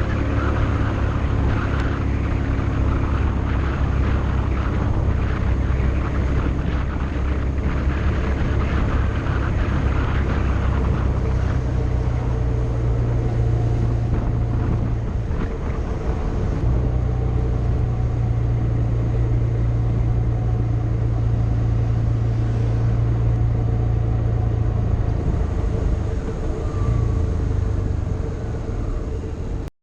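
Motorcycle engine running steadily on the move. Its note dips briefly about halfway through, then holds again, and the sound cuts off suddenly at the end.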